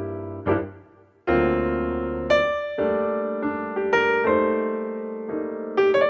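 Background music: solo piano playing slow chords and single notes, each note ringing out and fading before the next.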